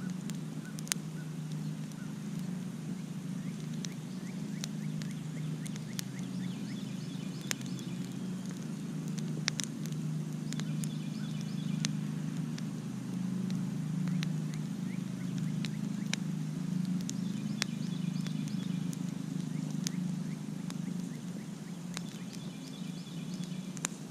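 Campfire crackling, with sharp pops at irregular intervals over a steady low rumble. A short high animal call recurs about three times.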